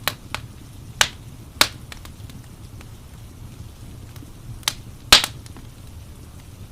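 Wood fire crackling: irregular sharp pops and snaps, the loudest about five seconds in, over a steady low rumble of the burning fire.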